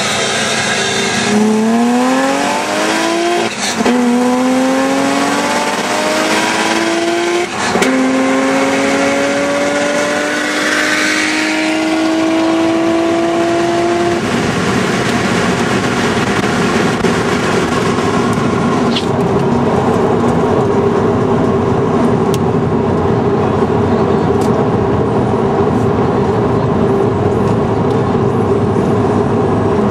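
2009 Subaru WRX's turbocharged flat-four pulling hard under acceleration, heard inside the cabin: the note climbs in pitch through three gears, with quick shifts about 3.5 and 7.5 seconds in. About 14 seconds in the throttle comes off, the engine note drops away, and steady wind and road noise takes over as the car coasts at speed.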